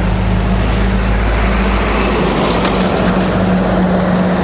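Road traffic: a motor vehicle engine running steadily close by, a held low hum over a wash of road noise.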